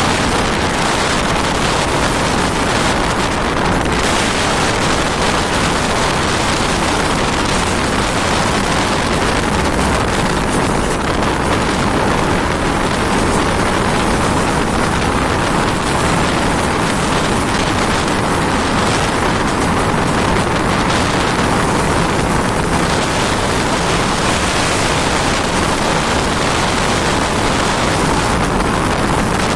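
Mumbai suburban local train running, a steady loud rumble of wheels on the rails mixed with wind rushing against the microphone at the open door.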